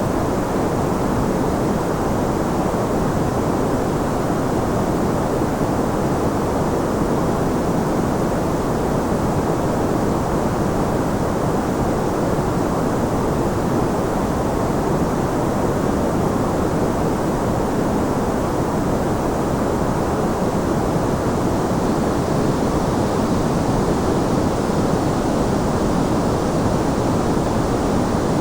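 Continuous white noise of the kind played for sleep: an even, unbroken rush of hiss, heavier in the low and middle range than at the top, with no change or rhythm.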